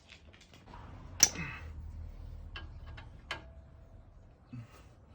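Tools and metal parts clinking and clicking during brake work: one loud sharp click about a second in, then a few lighter metallic clinks, one ringing briefly, and a soft thump near the end.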